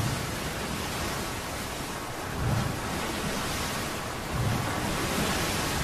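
Rough sea: a steady rush of waves and wind, with heavier surges about every two seconds.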